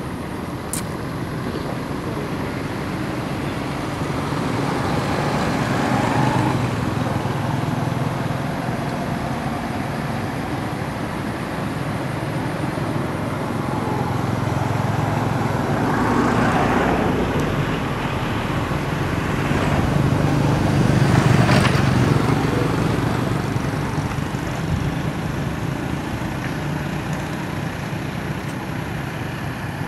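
Steady road traffic noise, with vehicles swelling past about a fifth of the way in, a little past halfway, and loudest about two-thirds of the way through.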